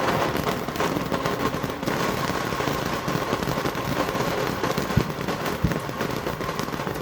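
Consumer firework going off with a dense, steady crackle, and two louder pops a little past halfway.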